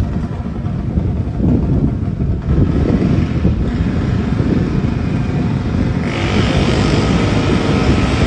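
Minibike engines running loud and rough, with a brighter, higher sound joining in about six seconds in.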